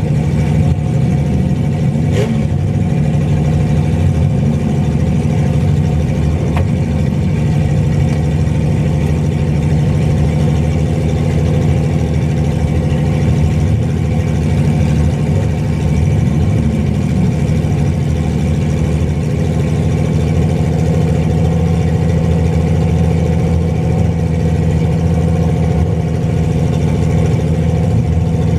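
Mini pickup truck engines running, a loud steady drone that holds throughout with no clear change in pace.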